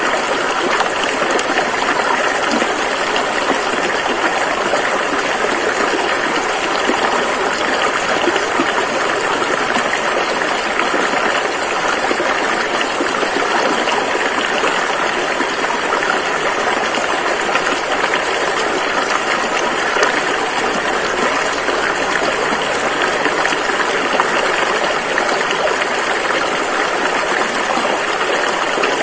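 Rushing river water flowing over rapids: a steady, even rush of running water.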